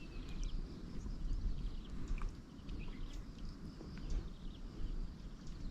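Outdoor background noise: an irregular low rumble with faint, scattered high chirps.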